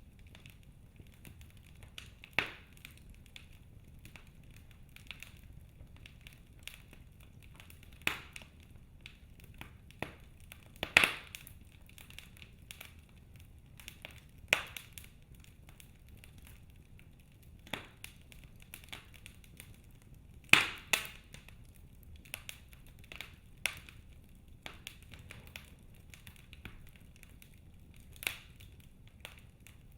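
Wood fire burning in a fireplace: irregular sharp crackles and pops from the logs, some loud, over a faint low hiss.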